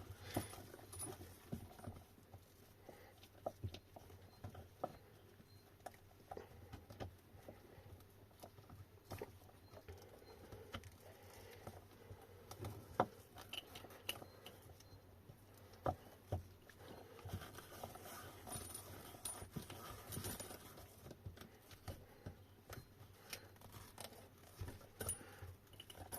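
Faint, irregular small clicks, taps and rustling of hands working a bundle of motor wires and the hall sensor connector through a Sur Ron hub motor, with a sharper tap about 13 seconds in.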